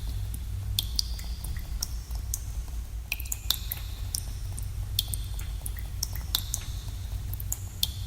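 Water drops falling in a cave, landing in pools as irregular plinks, several a second, each with a short ringing tone and echo, over a steady low rumble.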